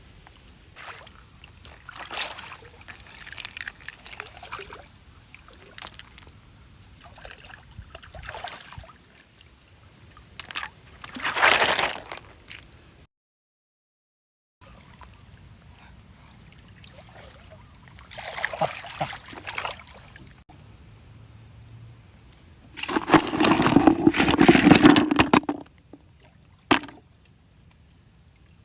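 Water sloshing and splashing in irregular bursts, loudest in a long burst near the end. The sound cuts out completely for about a second and a half midway.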